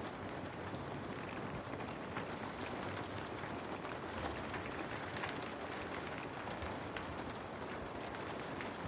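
Steady rain on a window: a dense, even hiss of rainfall with many individual drops ticking throughout.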